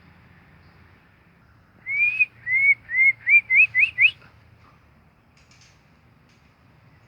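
A bird whistling a quick series of about seven short notes that each rise in pitch, the notes coming faster and closer together over about two seconds, starting about two seconds in.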